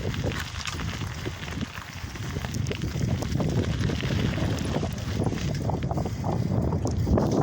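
Wind buffeting the microphone over the rattle and crunch of a lowrider bicycle rolling along, with many small irregular clicks and knocks.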